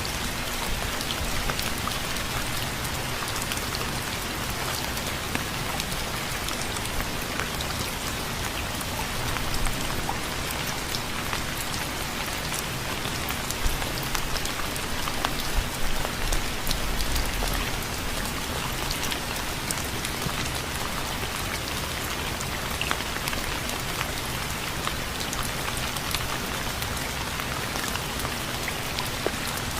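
Steady rain falling, with many single drops ticking sharply over a continuous hiss, a few louder drop hits near the middle.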